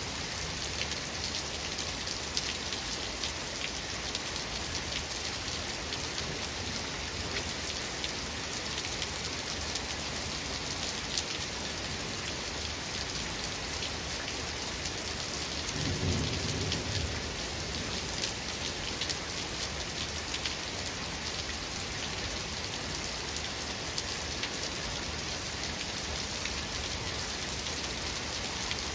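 Steady rain falling, with fine drop ticks throughout, and a short low rumble of thunder a little past halfway that lasts about a second and a half.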